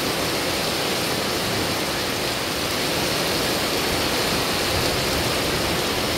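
Torrential rain pouring down in a steady, even hiss onto the driveway, the yard and the porch roof.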